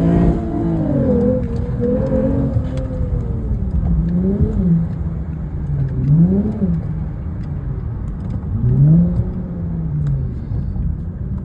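Lexus IS350's 3.5-litre V6 with its muffler deleted, revved: the exhaust note falls from high revs back toward idle over the first few seconds, then three quick throttle blips rise and drop back.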